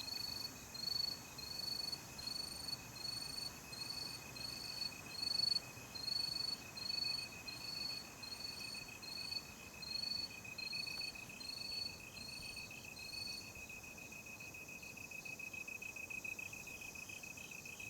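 Night insects calling: one cricket chirps in an even rhythm, about one and a half high chirps a second, and stops about three-quarters of the way through. Under it runs a steady, lower, continuous trill from another insect that grows a little louder near the end.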